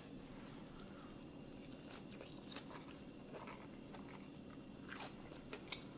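Faint chewing with soft crunches and clicks: a person eating crusty oven-baked beef brisket.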